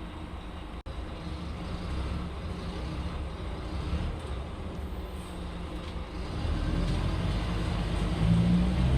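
Scania K310UB bus's diesel engine running, growing louder about six seconds in and again near the end. There is a momentary cut in the sound just under a second in.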